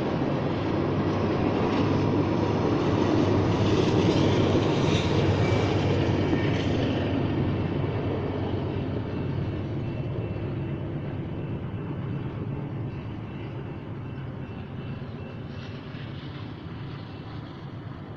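Covered hopper cars of a BNSF grain train rolling over a road crossing: a steady rumble that peaks about four seconds in and then fades away as the end of the train passes.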